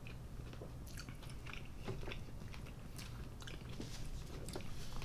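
Close-up chewing of roast duck wrapped in soft steamed buns: scattered wet mouth clicks and smacks over a faint low steady hum.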